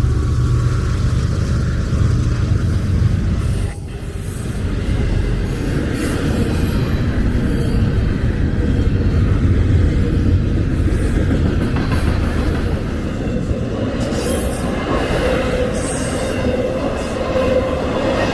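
Diesel-hauled intermodal freight train passing close by. A heavy locomotive rumble in the first few seconds gives way to the steady rolling noise of the cars' wheels on the rails, with some wheel squeal.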